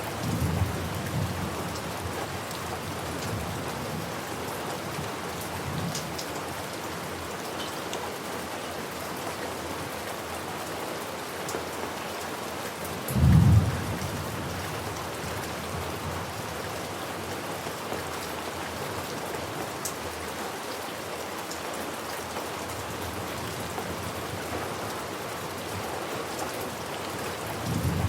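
Steady rain falling, with a loud low thunderclap about halfway through and fainter rumbles of thunder near the start and end.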